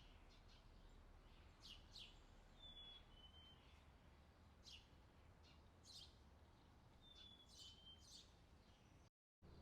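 Faint songbirds chirping: quick high chirps repeated every second or so, and twice a short two-note whistle, over a low steady hum. The sound cuts out completely for a moment near the end.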